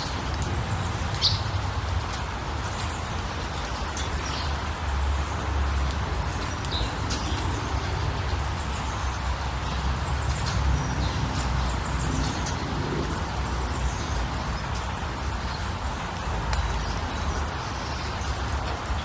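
Scattered short bird chirps over a steady low rumbling background noise.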